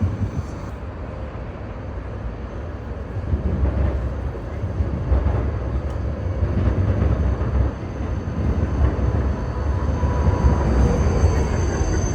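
Urban rail train running, a steady low rumble with rail noise.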